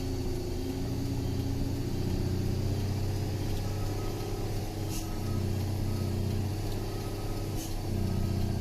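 Truck engine running steadily in second gear on a downhill descent, the gear holding the truck back. Short hisses come about five seconds in and again near the end.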